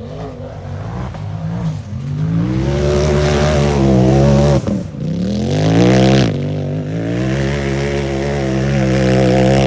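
Unlimited-class UTV race engine at full throttle, revving up as it climbs. The revs drop sharply twice near the middle, then it is held at high revs.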